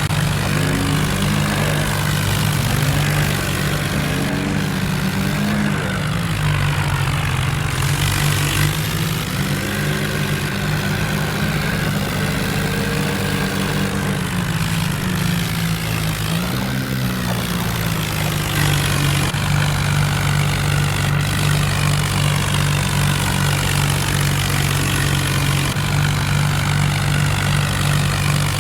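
Diesel tractor engine running steadily, its pitch wavering up and down for a stretch in the middle as the engine speed changes.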